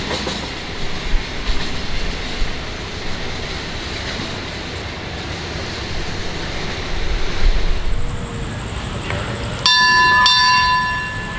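A train rolling through the station, with a steady rumble and irregular clatter of wheels over the rail joints. Near the end a ringing bell-like signal tone starts abruptly, breaks off briefly and sounds again.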